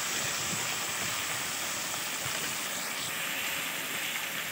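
Crab pieces frying in hot oil in a kadai, a steady, even sizzling hiss as they are lightly fried.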